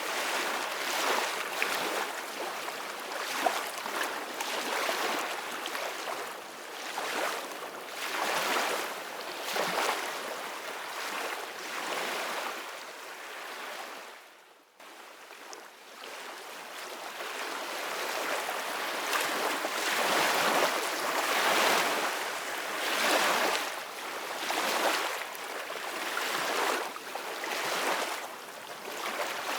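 Ocean surf: waves breaking and washing up, the rushing sound swelling and ebbing every second or two. Halfway through it drops out briefly, then builds back.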